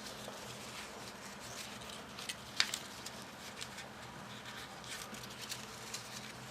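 Folded paper modules being handled and pushed into one another: scattered soft rustles and light clicks of paper, the sharpest about two and a half seconds in.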